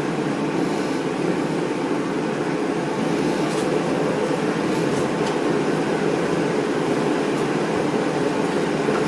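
Steady whooshing background noise, like a running fan or air handler, with a couple of faint clicks in the middle.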